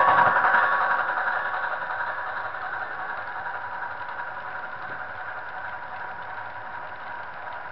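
A train rolling past: a steady rattle and clatter of wheels on the rails, loud at first and fading over the first few seconds as it moves away, then holding at a lower level.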